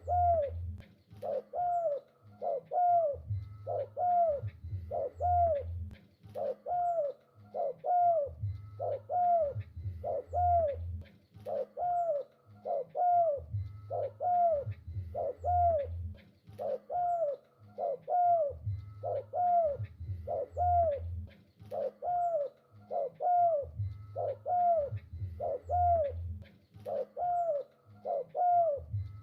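Spotted dove (tekukur) cooing continuously: repeated short, arched coo notes grouped in regular phrases.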